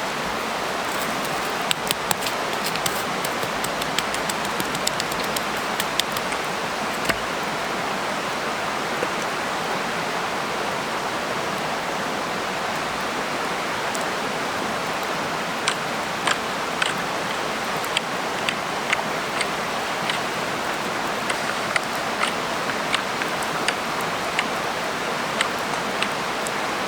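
Wood campfire burning, with scattered sharp crackles and pops over a steady rushing hiss.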